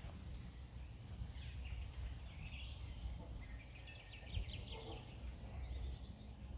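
Songbirds singing and chirping, with a fast trill of rapid notes near the middle, over a steady low rumble.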